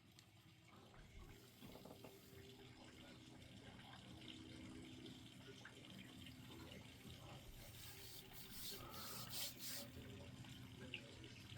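Faint light rain with dripping water, very quiet, with a few soft ticks of drops about two-thirds of the way through.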